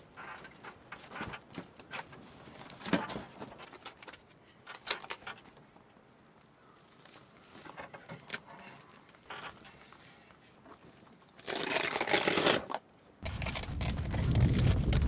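Small crinkling and rustling handling sounds with scattered light clicks. Near the end, a loud gusting noise and then a low rumble of strong wind buffeting the microphone.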